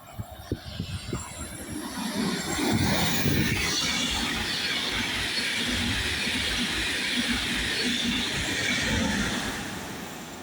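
A train passing on the line. A few sharp clicks come first, then the rolling noise swells about two seconds in, holds, and fades near the end.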